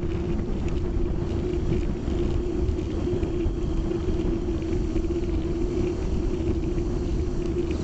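Heavy low wind rumble buffeting the microphone, with a steady hum, and faint Meimuna mongolica cicada song high above it.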